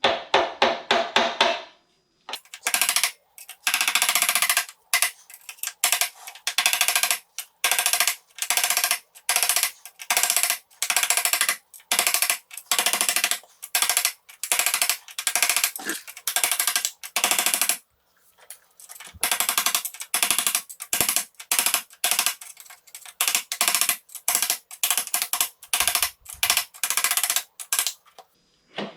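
Hammer striking a screwdriver used as a drift to drive round the shock absorber nut on a 1955 BSA B33's primary-side engine sprocket. The metallic blows come in a fast steady run, about two or three a second, pausing briefly twice.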